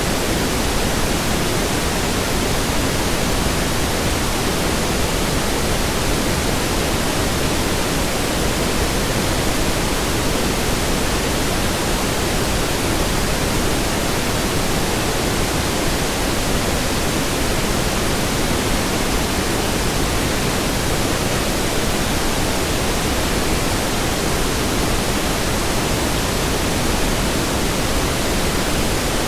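Steady synthetic pink noise: an even, unchanging hiss with no other sounds.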